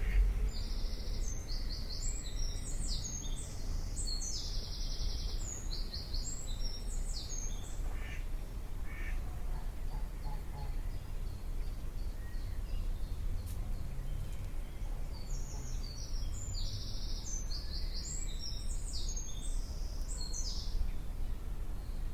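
A songbird singing two long phrases of rapid high notes, each about six seconds, with a pause of several seconds between them, over a steady low background rumble.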